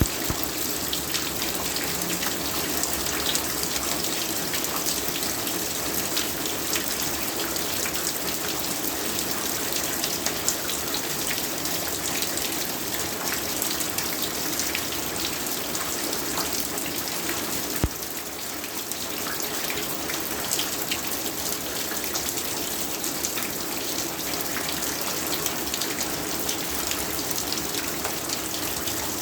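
Heavy rain falling steadily, a dense hiss with the patter of individual drops. About halfway through there is one sharp knock, after which the rain is briefly a little quieter.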